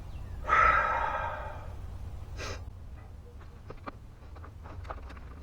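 A man's long, loud sigh of frustration about half a second in, fading out, then a shorter breath about two and a half seconds in, followed by a few faint clicks.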